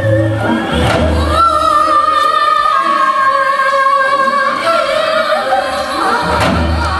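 Music with singing, a choir holding long, sustained notes over a low accompaniment.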